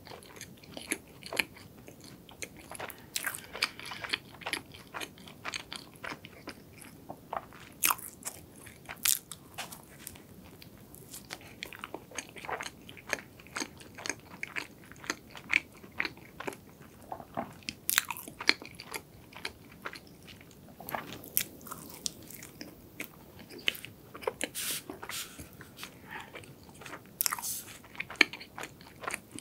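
Close-miked chewing and biting of a soft, cream-filled glazed donut: many sharp wet mouth clicks and smacks, with occasional crunches.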